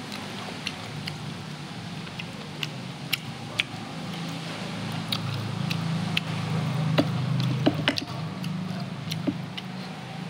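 Mouth sounds of eating: scattered sharp clicks and smacks of chewing, thickest about seven to eight seconds in, over a low hum that swells in the middle.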